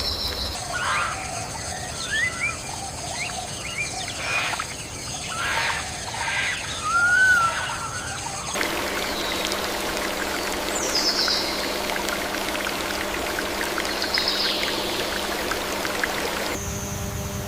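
Outdoor nature sound: birds chirping with short rising and curving calls over a steady high hum. About halfway through it cuts abruptly to a steady rush of water, over which a bird gives two brief falling calls.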